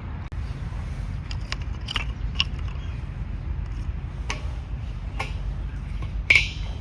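Hard objects knocking and clinking together, several separate sharp clicks with the last and loudest ringing briefly, over a steady low rumble.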